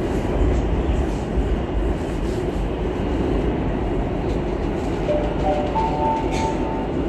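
Madrid Metro Line 6 train running, a steady low rumble from inside the carriage. About five seconds in, a three-note rising chime sounds on the train's public-address system, signalling an announcement.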